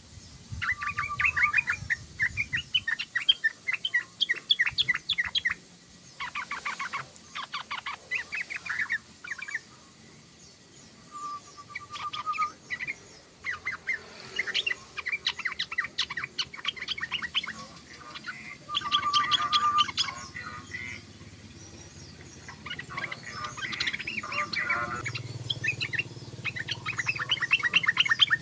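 Yellow-vented bulbul (trucukan) singing: a series of rapid, chattering phrases, each a second or two long with short pauses between, some opening with a brief steady whistle.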